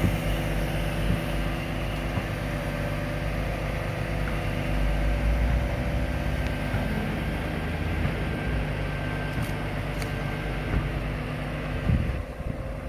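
Scania R500 truck's V8 diesel engine running steadily, with a knock near the end after which the sound quietens.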